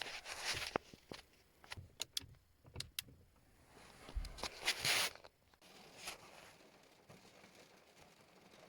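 Close handling noises in a car's dark cabin: a series of sharp clicks over the first few seconds, then a louder rustle about four and a half seconds in, and after that only faint background noise.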